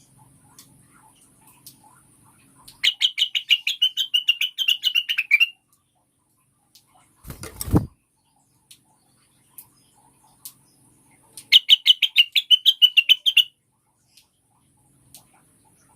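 Female cucak wilis (blue-winged leafbird) giving two bursts of rapid chattering notes, each a couple of seconds long, the first a few seconds in and the second near the end. About halfway through there is a brief low thump.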